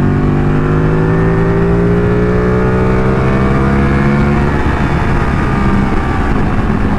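Ducati 1199 S Panigale's Superquadro L-twin engine pulling under throttle, its pitch climbing slowly for about four seconds and then holding, with heavy wind rush on the microphone.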